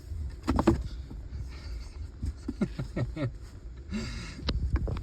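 Rustling and handling knocks as a kitten is lifted out of a box, with a few short soft sounds over a low rumble.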